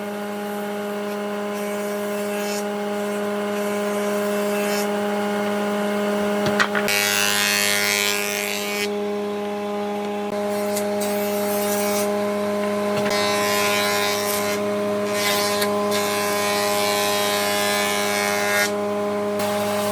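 An electric power tool runs at a steady speed while working wood. Its cutting or abrading noise comes and goes in stretches of a few seconds as the tool bites into the wood and eases off. There is a brief knock about six and a half seconds in.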